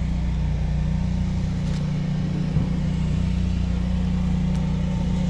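An engine running steadily with a constant low hum, and a small click about two and a half seconds in.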